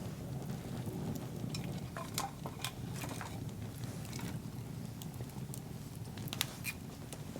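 Campfire burning with a low steady rush and scattered sharp crackles and pops from the wood. There is a cluster of pops about two seconds in and another near the end.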